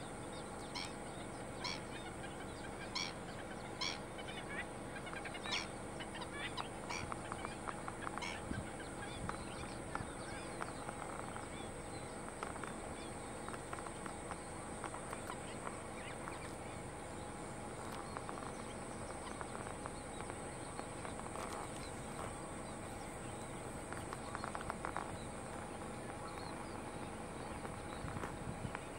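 Black-winged stilt calling: a run of short calls, about one to two a second for the first eight seconds or so, then fainter and more scattered, over a steady high hiss.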